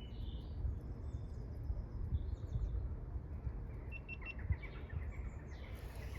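Small birds chirping and singing in short, scattered phrases over a steady low rumble.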